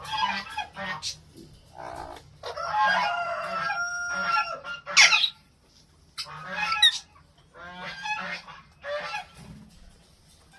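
Alexandrine parakeets (Raw parrots) giving repeated harsh, loud calls in bursts, with the loudest shriek about halfway through and short pauses between groups of calls.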